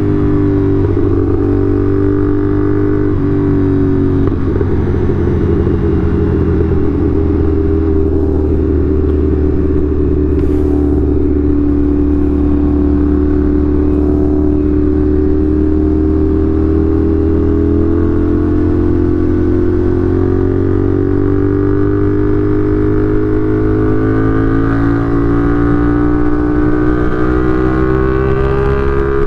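CFMOTO 450SR's parallel-twin engine running under way at a steady cruise, its pitch easing down slowly and then climbing again near the end as it picks up revs.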